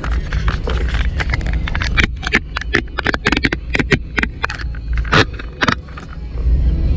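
Steady low road and engine rumble inside a moving vehicle's cabin, with many irregular sharp taps and clicks over it.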